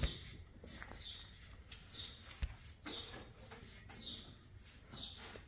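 A small bird chirping over and over, short high calls that each slide down in pitch, roughly one a second, with a soft knock right at the start.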